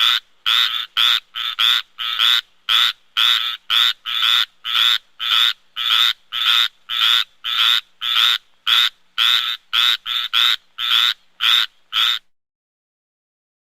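Tree frog croaking: a steady series of short, evenly spaced calls, about two a second, that stops about twelve seconds in.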